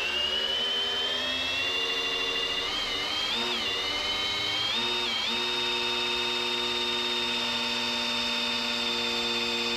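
Electric drill spinning the oil pump of a small-block Chevy 350 V8 to prime it: a steady whine that wavers in pitch a few seconds in, then holds steady. The pump is pushing oil through the engine and building up to about 50 pounds of oil pressure.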